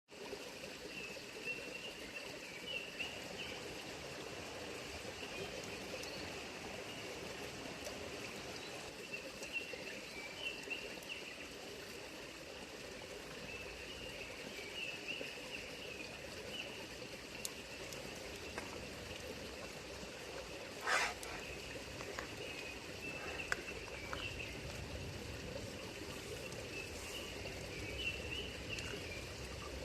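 A stream running steadily, with small birds chirping again and again over it and a few sharp clicks, the loudest about two-thirds of the way through.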